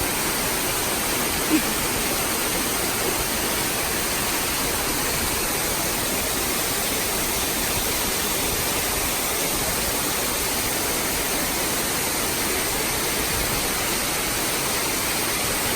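Waterfall, the Banyumala falls pouring into a pool: a steady, even rushing of water.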